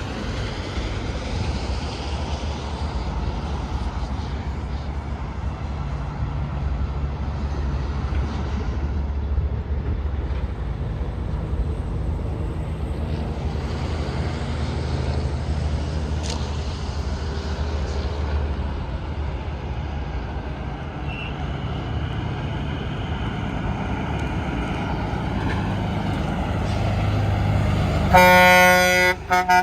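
Semi-trucks passing on the interstate, a steady engine and tyre noise, then near the end a loud truck air horn blast that breaks off for a moment and sounds again.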